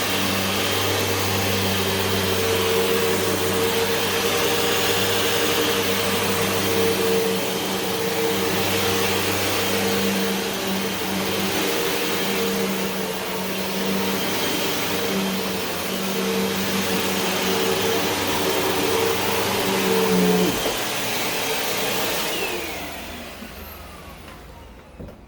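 Vacuum cleaner running steadily at full power over carpet, then switched off about twenty seconds in, its motor winding down with a falling whine.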